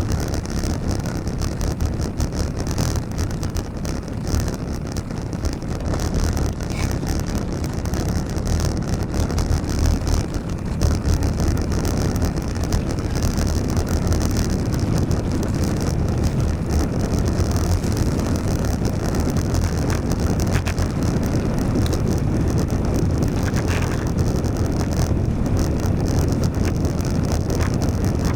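Steady wind buffeting the microphone during a bicycle ride in the rain, over a continuous hiss of tyres on the wet road.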